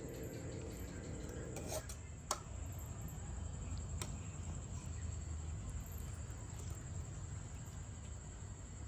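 A food bowl clinking a few times, the sharpest clink about two seconds in, over a low steady rumble.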